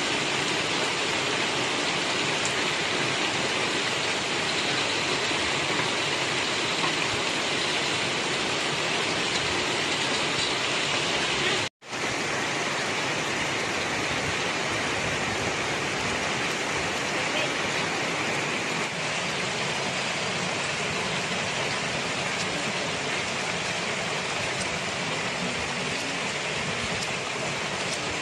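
Heavy rain falling steadily, an even continuous hiss. The sound cuts out for an instant about twelve seconds in.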